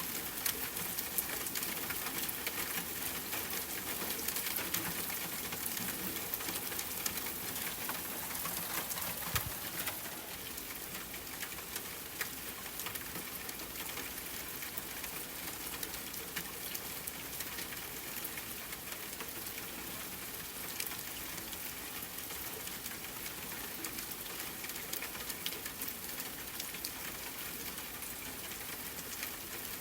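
Steady rain falling, mixed with the scattered sharp crackles of a campfire. There is a single low thump about nine seconds in.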